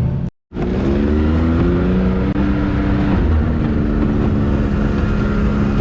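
Can-Am X3 side-by-side engine running on the trail, its pitch rising and then holding steady as the throttle is worked. The audio drops out to silence for a moment about a third of a second in.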